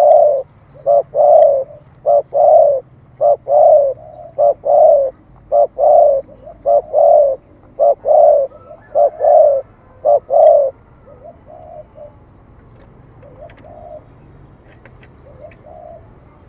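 Spotted dove cooing in the urgent 'thổ thúc gù' style: a fast series of short coos, some in pairs, for about ten seconds, then only a few faint coos.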